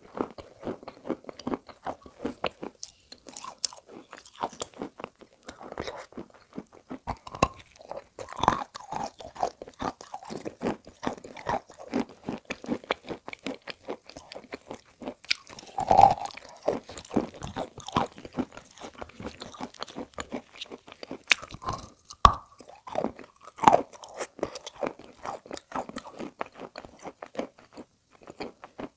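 Close-up biting and chewing of chalk coated in wet edible clay paste: a dense run of crisp crunches, with a few louder bites, the loudest about halfway through.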